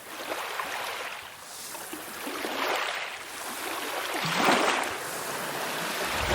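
Sea waves washing up on a beach: a steady hiss of surf that swells and falls back in several rushes, the loudest about four and a half seconds in.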